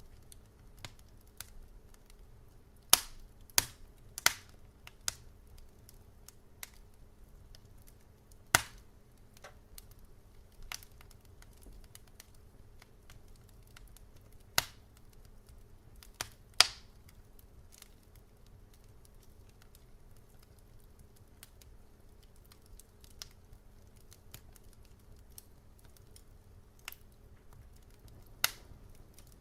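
Wood fire burning in a fireplace, crackling with irregular sharp pops and snaps, several of them loud, over a faint low steady rumble.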